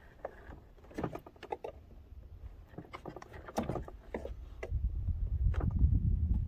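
Knife blade clicking and scraping against plastic rivets as their ends are cut off, a dull blade working at them in short strokes. About five seconds in, a low rumble starts up and becomes the loudest sound.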